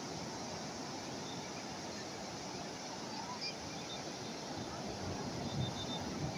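Calm sea waves washing in steadily, with a slightly stronger surge near the end.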